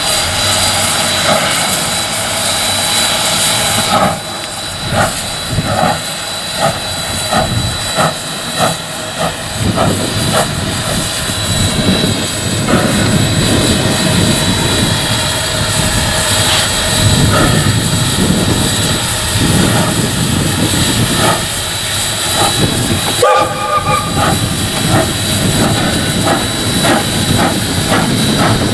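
Steam locomotive Ww 644 running, heard from its cab: a steady roar and hiss of steam and running gear, with stretches of regular exhaust beats about two a second.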